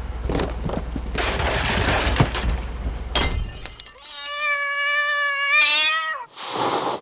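Clattering and crashing for about three seconds, then a long, wavering cat-like meow lasting about two seconds, ending in a short burst of noise.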